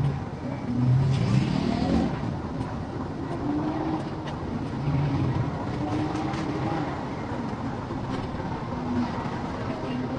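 Street traffic: motor vehicle engines running, one revving up with a rising pitch about a second in.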